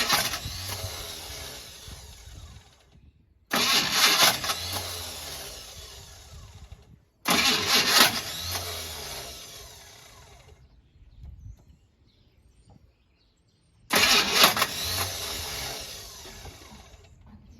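Chevrolet El Camino's engine being cranked by the starter in repeated tries that fail to start it. One try fades out near the start, and three more follow, each loud at first and fading away over a few seconds, with a quiet pause before the last.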